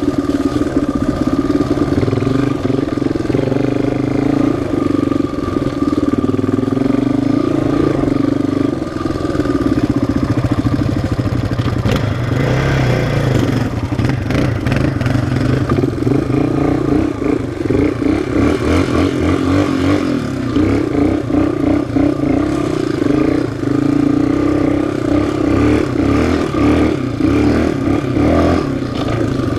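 Loud single-cylinder off-road engine running the whole time, its pitch drifting up and down with the throttle.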